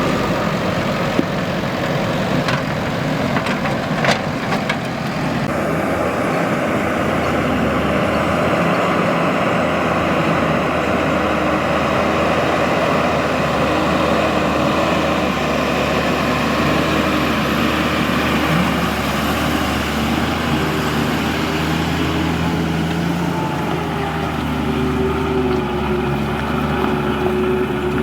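Heavy diesel engine of earthmoving machinery running steadily at work, with a few sharp metallic knocks in the first five seconds and the engine note shifting and rising somewhat in the last third.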